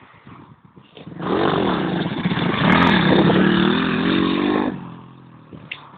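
110cc pit bike engine revving hard as the bike rides by, loud from about a second in, its pitch rising and falling with the throttle, then dropping away shortly before the end.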